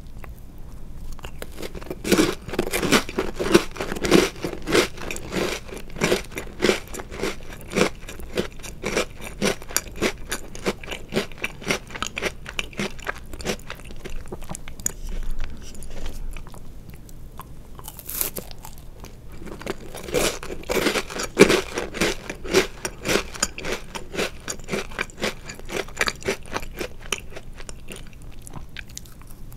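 Close-miked crunching and chewing of chocolate-covered Oreo cookies. Bursts of rapid crisp crunches come in two runs, the louder about two seconds in and a second around twenty seconds in, with softer chewing between.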